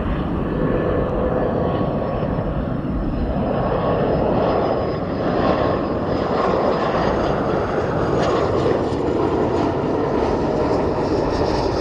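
Fixed-wing aircraft engines running at steady loudness: a broad rush with a faint high whine.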